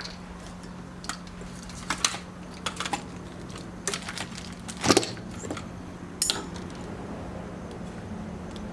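Scattered light clicks and clatters of test leads and clips being handled and connected, the loudest about five seconds in, over a steady low hum.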